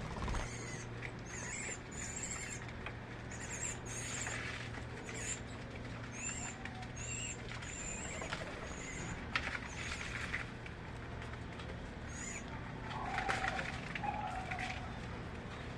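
Small birds chirping: short, high calls repeating irregularly every half second or so, over a steady low hum.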